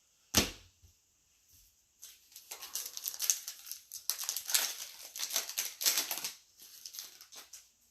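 Trading-card pack wrapper being torn open and crinkled: a dense crackling that lasts about five seconds, after a single sharp tap near the start.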